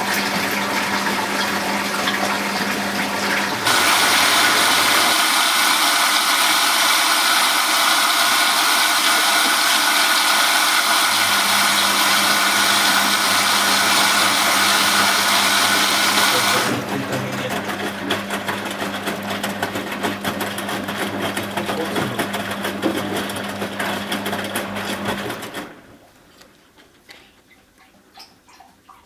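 Zanussi Z913 washing machine taking in water for the wash, a steady rush of water with a steady hum. The flow gets louder about four seconds in, eases near the middle, and cuts off about 26 seconds in, leaving faint ticking.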